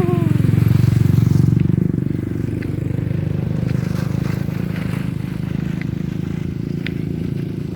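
A motorcycle engine running steadily, a little louder in the first two seconds.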